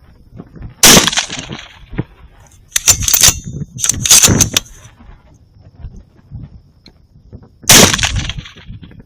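Two rifle shots from a Remington 700 in .17 Remington, about seven seconds apart, each a sharp crack with a short tail. Between them come two quick runs of clicks and rattles.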